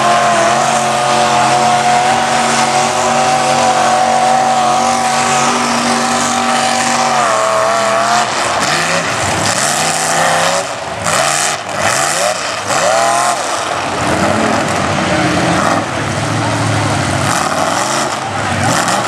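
Mud-bog truck's engine held at high revs for about eight seconds, then revved up and down in repeated quick swings, dropping to a lower, rougher running sound for the last few seconds.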